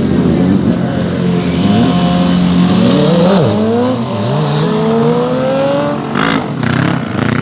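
Several motorcycle engines revving at once, their pitch rising and falling, with one climbing steadily as it accelerates in the middle. A few short noisy bursts come near the end.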